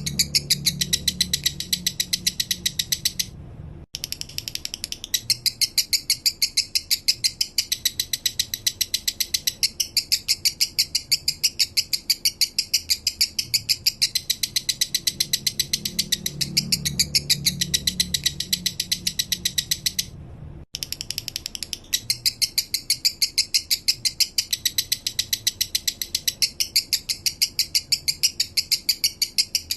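Male lovebird singing a long, unbroken chattering song: a rapid, even run of sharp high chirps, the 'minor' song style kept for bird-song training. It pauses briefly twice.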